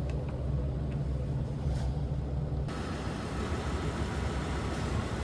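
Motorhome engine idling with a steady low hum; a steady hiss comes in suddenly about halfway through.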